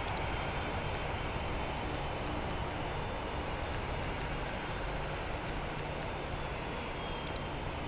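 Jet airliner engines heard at a distance, a steady wash of noise with no clear changes.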